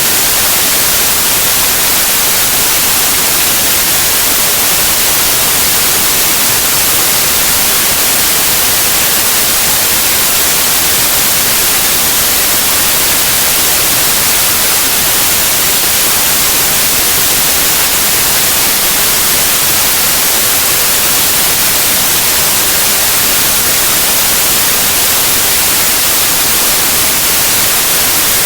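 White noise: a loud, steady, unchanging hiss, strongest in the highs.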